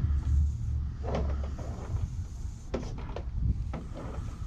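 Handling noise from the car vacuum and its power cord as it is inspected: a low rumble that fades in the first second or so, with several light knocks and rustles.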